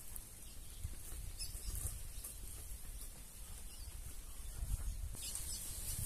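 Outdoor rural ambience: a few faint bird chirps over a steady low rumble of wind on the microphone, with a high hiss that grows brighter near the end.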